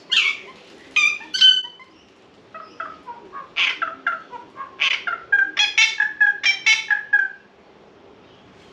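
Birds calling: sharp, squawky calls, a few in the first two seconds, then a quick run of repeated calls that stops about a second before the end.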